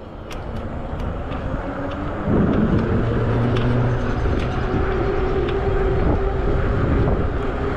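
Riding noise of a 20-inch fat-tire e-bike in motion: tyre and wind rush on the bike-mounted camera, with a steady hum under it. It gets louder about two seconds in.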